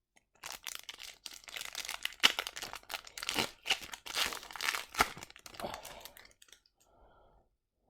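The wrapper of a hockey card pack being torn open and crinkled by hand: a dense run of crackling, tearing rustles that dies away about six and a half seconds in.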